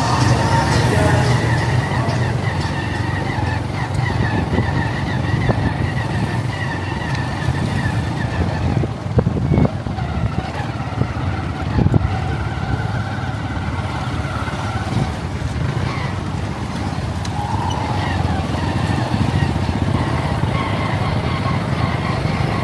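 Motorcycle running steadily under way, with road and wind noise. Two short knocks come near the middle.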